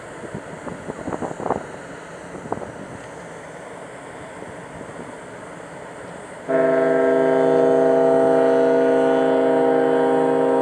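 A Taiheiyo Ferry ship's whistle starts suddenly after about six seconds of low background noise with a few brief sounds, and then holds one loud, steady blast made of several tones together.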